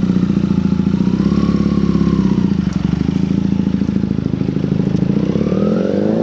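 A vehicle engine running steadily, then revving up with a rising pitch near the end.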